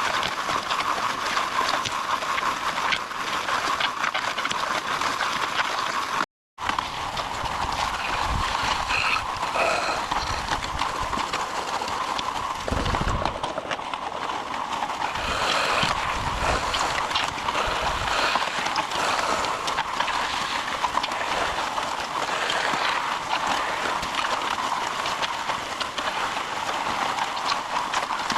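MudMixer portable concrete mixer running, with a steady mechanical rattling and clatter as it mixes and delivers concrete. The sound cuts out for a moment about six seconds in.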